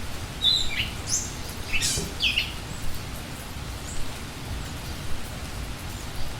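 Steady rain with a few short bird chirps in the first couple of seconds and one faint chirp later.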